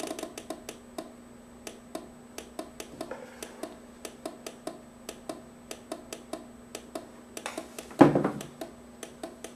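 Relay inside a hand-built noise machine clicking on and off, about three sharp clicks a second, as the step sequencer gates it, over a faint steady hum. A louder thump comes about eight seconds in.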